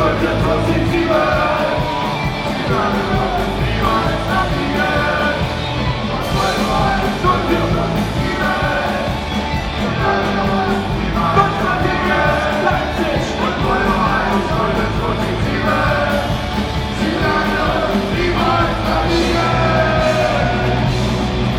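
Live band playing a rock song with a singer shouting the vocals over bass, guitar and drums, heard in a large hall.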